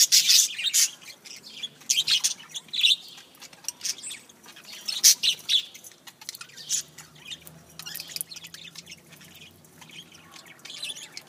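Birds chirping in short, high bursts, loudest at the start and again about five seconds in.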